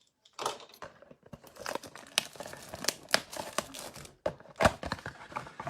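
Plastic trading-card packaging being torn open and crinkled by hand, an irregular crackle with sharp snaps throughout.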